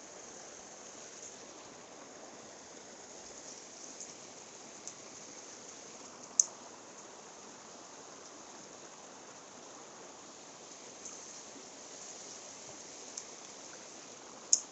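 Mountain stream flowing steadily, with a few short, sharp high clicks; the two loudest come about six seconds in and near the end.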